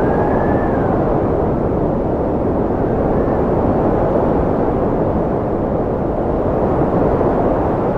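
Steady cold wind blowing with a deep, even rush. A faint thin whistle slides slightly down near the start, and a shorter one comes about three seconds in.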